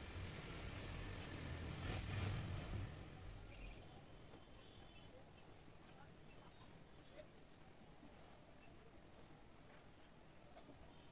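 A bird calling a short, high chirp that slides down in pitch, repeated about twice a second some twenty times and stopping near the end. A low rumble sits underneath for the first three seconds.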